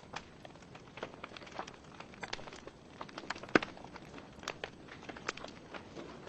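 Wood fire burning in a fireplace: logs crackling with irregular sharp pops over a faint hiss, one louder pop about three and a half seconds in.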